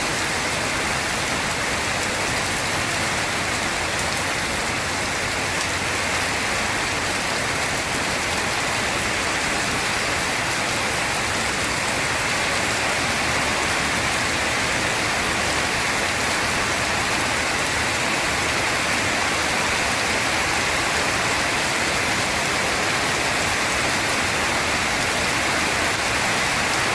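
Heavy rain pouring down steadily, a dense, even hiss of rainfall with no thunder.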